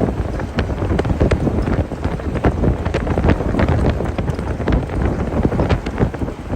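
Strong wind buffeting the microphone: a loud, steady low rumble with many irregular sharp knocks.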